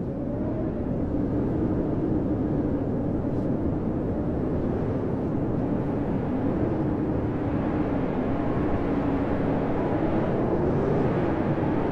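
Blizzard wind howling: a steady rush of wind with a low moaning tone that wavers slowly up and down in pitch, rising higher about ten seconds in.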